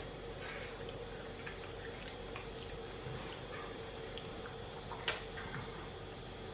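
Eating sounds up close: chewing of a taco with small wet mouth clicks and one sharp click about five seconds in, over a steady low hum.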